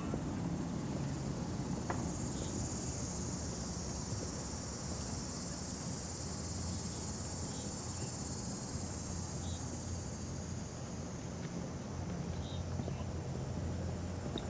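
An insect's steady high-pitched buzz swells in about two seconds in, holds, and fades away near the end, the drawn-out summer drone of a cicada. A low steady hum runs underneath.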